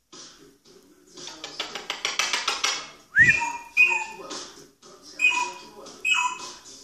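A pet parrot mimicking a mobile phone's electronic beeps: a rising whistle about three seconds in, then several short two-tone beeps, with chattering between them. The owner takes the beeps for the phone's low-battery warning.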